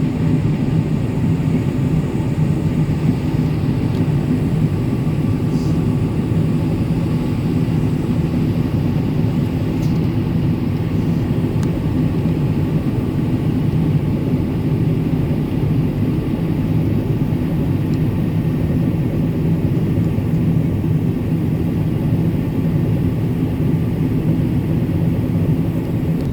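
Combine harvester running steadily while combining barley: a constant low engine drone that does not change.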